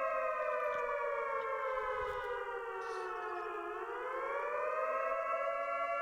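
A siren-like wailing tone with several overtones slides slowly down in pitch, bottoms out about three and a half seconds in, then climbs back up and holds steady.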